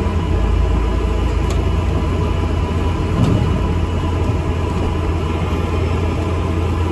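Steady low engine rumble of an ADL Enviro 400 MMC double-decker bus, heard from inside the passenger cabin, with a couple of faint clicks.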